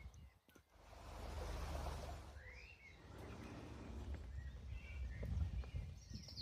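Outdoor ambience: a low steady rumble with a few faint bird chirps.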